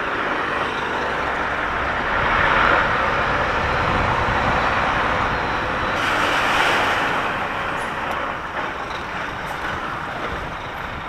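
Heavy goods lorry's diesel engine running, with road noise, heard from inside the cab as the truck works slowly through a tight turn. A louder hiss swells about six seconds in.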